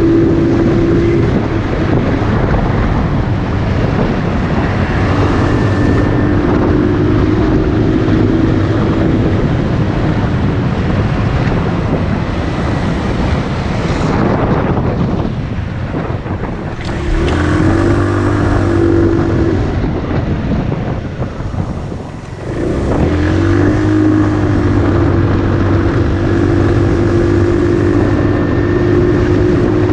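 Motorcycle engine running under way, with heavy wind rush over the microphone; the engine eases off briefly about halfway through and again a few seconds later, then pulls again.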